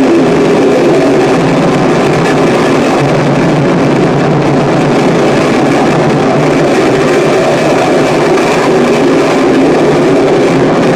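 Harsh noise music: a loud, dense wall of distorted noise that runs on without a break, heaviest in the low-middle range.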